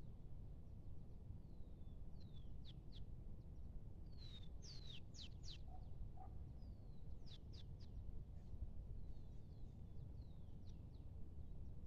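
Small bird chirping: short, high, downward-sweeping chirps in scattered clusters, busiest around the middle, over a faint steady low rumble of outdoor background noise.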